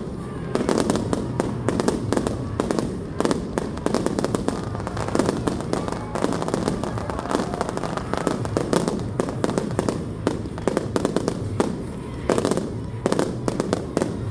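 Fireworks display: a dense, continuous string of sharp bangs and crackles, several a second, with irregular louder reports.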